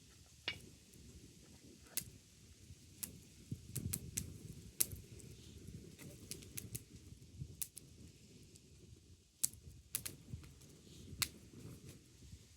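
Wood fire crackling: sharp, irregular pops and snaps over a low, steady rumble.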